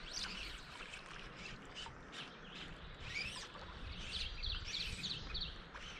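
Several songbirds singing and calling, a mix of chirps and short whistles, with a quick run of about five evenly spaced notes about four seconds in.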